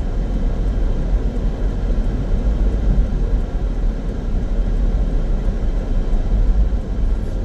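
Steady road and engine rumble inside a small car's cabin while it is being driven.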